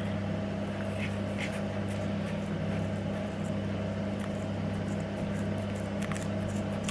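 A steady low hum, with a few faint light clicks about a second in and again near the end.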